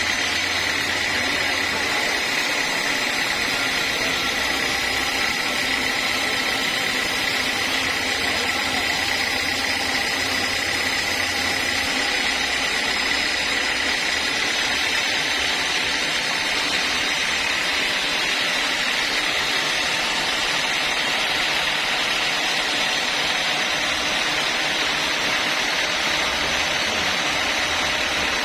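Sawmill saw running steadily through a long straight cut in a teak log: a constant hiss with a steady high whine, no breaks.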